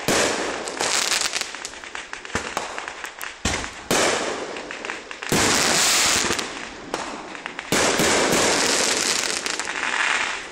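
Fireworks and firecrackers going off in dense crackling volleys full of rapid pops. The sound surges in several waves that start abruptly, about four, five and nearly eight seconds in, and dies down near the end.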